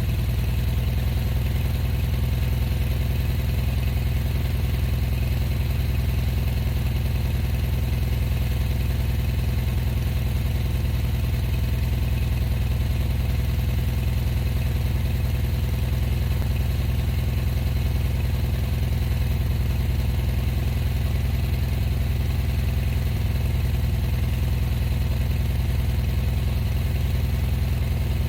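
Vehicle engine idling steadily, its speed holding even throughout.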